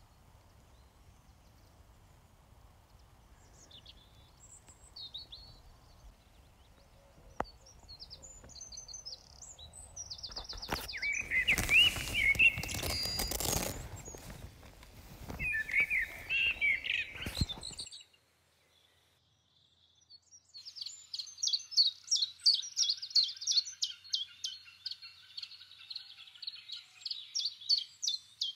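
Wild birds singing and chirping, faint at first, then louder about ten seconds in with a rushing noise under the song. After a brief near-silent break, a fast run of repeated high chirps follows.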